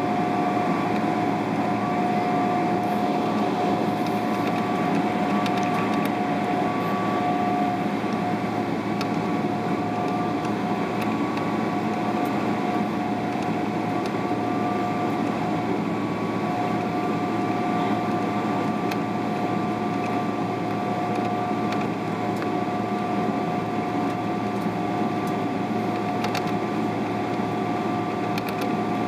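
Steady cabin noise inside a Boeing 777-300ER: the whine of its GE90 engines, heard as two steady tones, over an even rushing hum.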